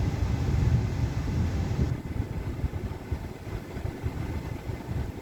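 A car idling, heard from inside the cabin as a low rumble. A steady hiss over it cuts off suddenly about two seconds in, and the rumble drops with it.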